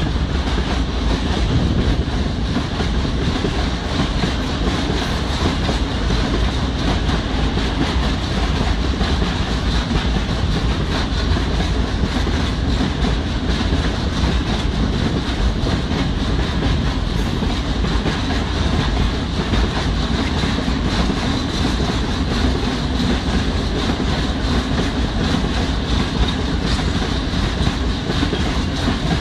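A long freight train of tank wagons rolling past without stopping: a steady loud rumble of steel wheels on the rails with a continuous rapid clatter of wheels over the rail joints.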